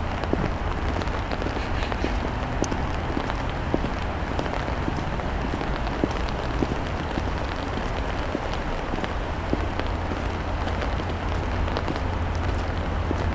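Mixed rain and wet snow falling steadily: a constant hiss dotted with many small drop ticks, over a steady low rumble.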